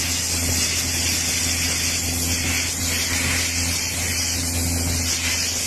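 A steady machine hum with a constant strong hiss, unchanging throughout.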